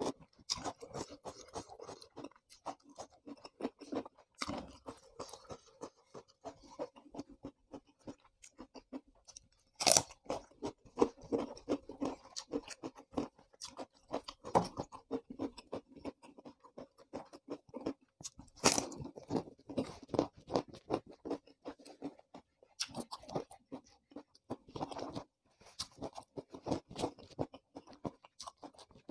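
A person chewing raw papaya leaf stalk close to the microphone: steady wet crunching, with sharp louder crunchy bites about ten seconds in and again near nineteen seconds.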